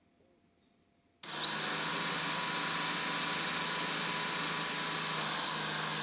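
Blitzwolf BW-VC2 robot vacuum starting up on a voice command: about a second in, its suction fan and brushes start abruptly and then run steadily.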